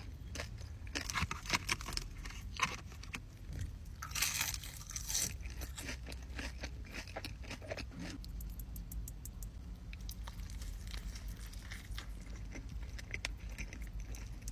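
Close-miked eating: crunchy bites and chewing, with a louder crunch about four seconds in and quick wet mouth clicks later on.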